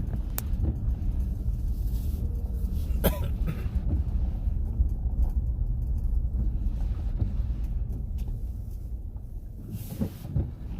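Car cabin noise while driving: a steady low road and engine rumble, with a few brief sharp sounds, one about three seconds in and a couple near the end.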